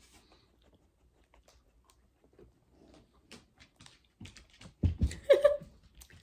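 Faint mouth clicks of someone chewing a stale, hard gummy candy, then a loud bump and a brief vocal sound about five seconds in.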